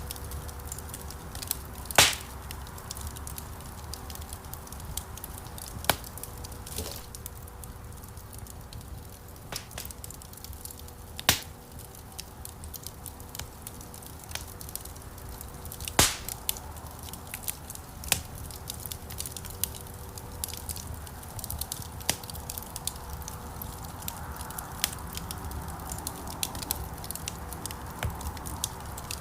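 Wood fire burning in a stone fireplace: a steady low rumble of flames with frequent small crackles and a few louder pops of burning logs, the loudest about 2, 11 and 16 seconds in.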